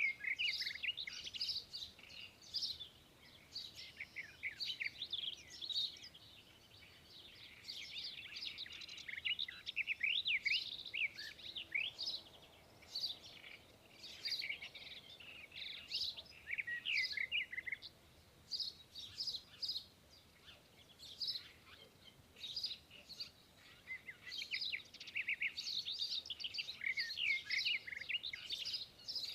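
Many small birds chirping in a busy chorus of short, high chirps and trills, thinning out for a few seconds past the middle before picking up again.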